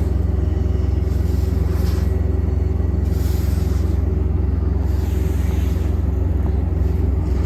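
A truck engine running steadily at idle, an even low throb with no change in speed.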